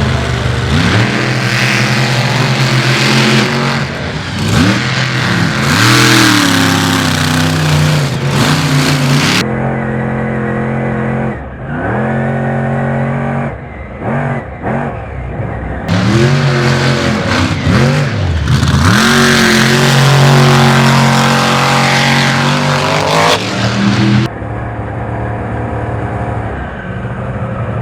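Monster truck engines revving hard, their pitch swinging up and down again and again. A loud hiss rides over the engines for the first nine seconds or so and again from about sixteen to twenty-four seconds in, and the sound changes abruptly at those points.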